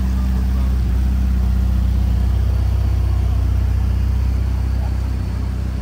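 Ferrari F8 Spider's twin-turbo V8 idling steadily, low and even, swelling a little about a second in and easing off near the end.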